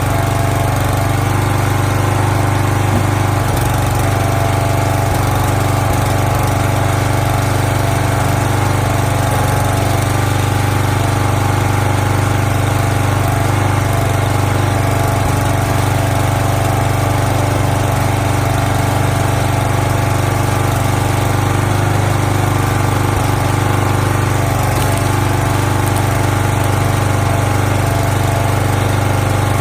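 Gas engine of a log splitter running steadily at a constant speed while firewood is split.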